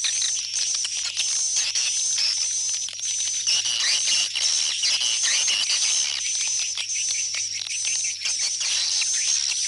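Swiftlets twittering and chirping in a dense, continuous chorus of high calls and quick clicks: the 'go back' call used to lure swiftlets home to a swiftlet house.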